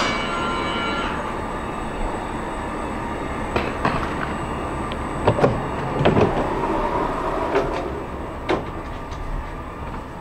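Commuter train noise: a steady rumble, with a steady whine of several tones that stops abruptly about a second in, followed by scattered clicks and knocks.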